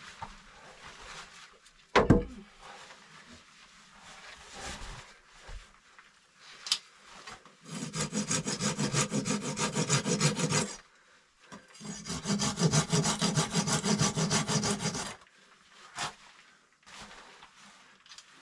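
A saw cutting wood in two bouts of quick, even strokes, each about three seconds long, with a short break between them. A single sharp knock comes about two seconds in.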